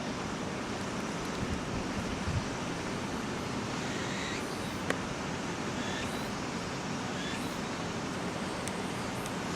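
Steady hissing outdoor background noise, with a few faint short high chirps and one sharp click about five seconds in.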